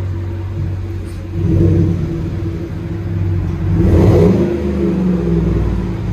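2018 Chevy Silverado's 5.3-litre V8 running through a Flowmaster 40 Series muffler with the resonator deleted. It idles, is revved about a second and a half in, and is revved again about four seconds in before dropping back to idle.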